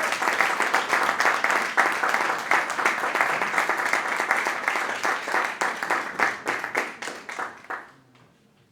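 Audience applauding, the clapping thinning out and dying away about eight seconds in.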